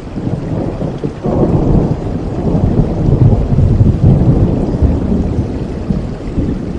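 Steady rain with a roll of thunder: a low rumble swells about a second in and slowly fades away.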